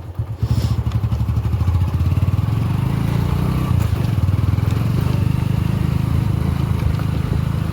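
Motorcycle engine running with a steady, pulsing low rumble, uneven for the first moment before settling.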